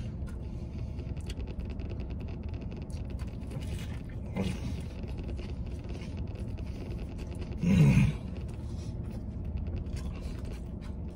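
A man chewing a burger close to the microphone, wet mouth clicks and smacks, over a steady low rumble in the truck cab. About eight seconds in, a short, loud voiced sound from him.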